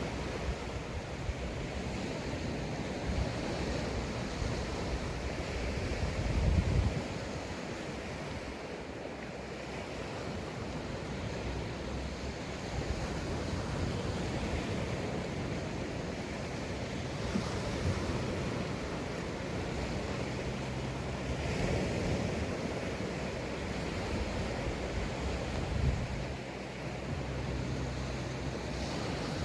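Sea waves breaking and washing up a sandy beach, the surf swelling and ebbing in a continuous rush. Wind buffets the microphone in low rumbles, the strongest about a quarter of the way in and again near the end.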